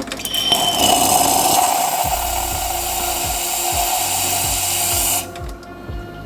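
Steam wand of a DeLonghi Dedica EC685, modified with a Rancilio Silvia wand, hissing as it steams milk in a pitcher. The hiss cuts off sharply about five seconds in.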